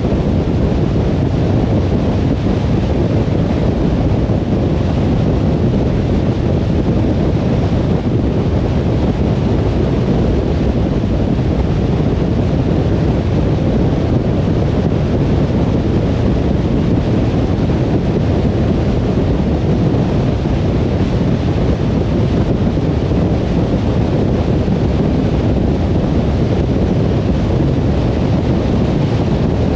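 Steady low rumble of a car driving on the road: tyre and wind noise with no separate events.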